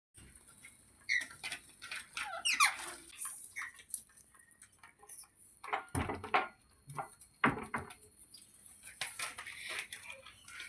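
A parrot making a string of short squeaks and chirps. One call slides downward about two and a half seconds in, and there are louder bursts around six and seven and a half seconds.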